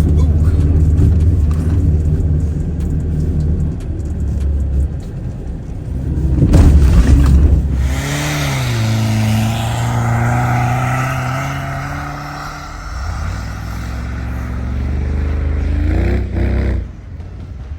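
Off-road truck engine running and revving in deep snow, with a loud rev about six to seven seconds in. From about eight seconds in the engine pitch rises and falls over a rushing noise.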